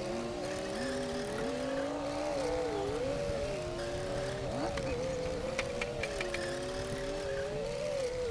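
Komatsu D60P bulldozer's diesel engine running under load, its pitch rising and falling as the load changes. A few short metallic clinks come a little past halfway.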